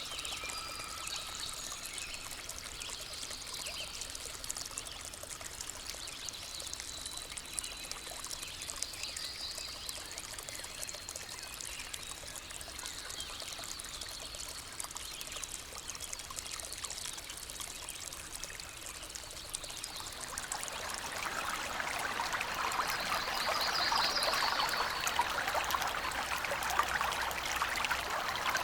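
Running water of a stream or small waterfall, a steady splashing rush that grows louder about two-thirds of the way through, with faint bird calls high above it now and then.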